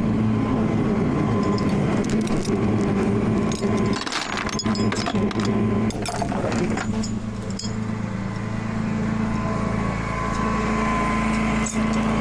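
Tow truck engine running steadily, with light metallic clicking and rattling in the middle.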